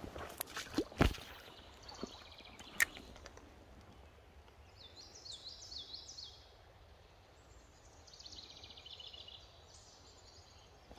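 A songbird singing two short phrases of quick, repeated high chirps, the second a faster trill, over faint background noise. A few sharp knocks and rustles come in the first three seconds.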